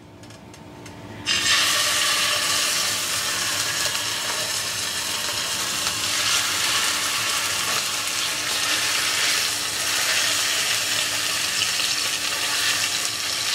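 Raw chicken breasts laid into hot oil in a frying pan, bursting into a sizzle about a second in and frying with a steady hiss after that.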